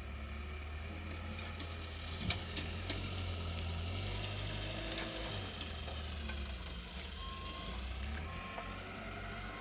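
Truck engine running steadily while the truck reverses, with a sharp knock a couple of seconds in; short reversing-alarm beeps start near the end.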